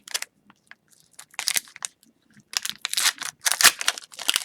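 Foil wrapper of an Upper Deck Series 1 hockey card pack crinkling and tearing as it is opened by hand, in irregular rustles that grow louder and busier over the last couple of seconds.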